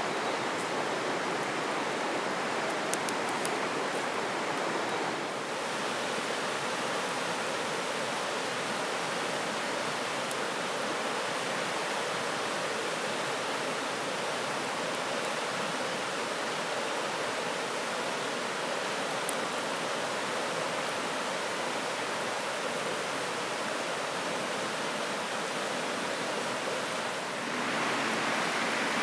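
Steady rush of a flowing river or stream, an even wash of water noise that changes slightly in tone about five seconds in and again near the end, with a few faint ticks over it.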